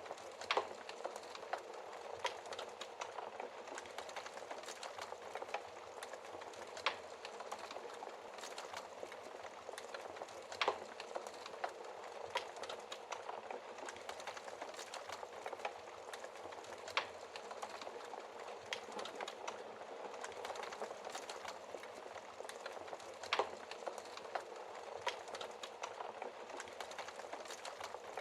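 Wood fire in a fireplace crackling steadily, a dense hiss of small crackles with a sharper, louder pop every few seconds.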